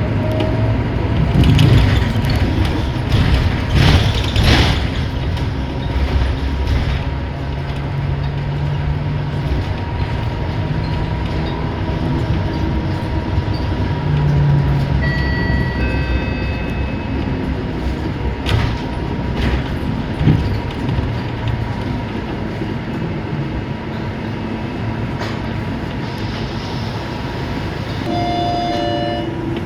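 Cabin noise of a Scania K230UB single-deck city bus on the move: steady engine and drivetrain rumble with road noise, and a few louder jolts in the first few seconds. Short electronic tones sound about halfway through and again near the end.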